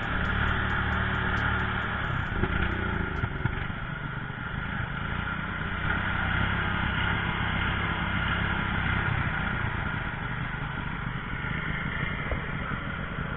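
An engine running steadily during a test run, with a low, even hum.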